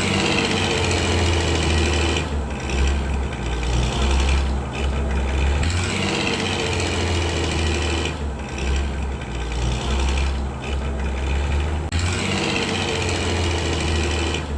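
Small motor of a toy vehicle running steadily: a low hum with a higher whine that swells and fades about every two seconds.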